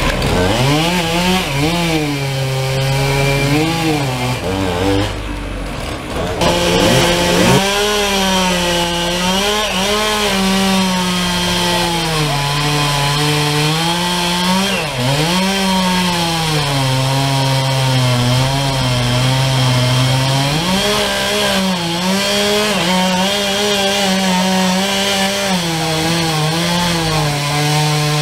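Two-stroke chainsaw running while cutting up a fallen tree, its engine pitch repeatedly falling and rising. It dips briefly about five seconds in, then revs up sharply.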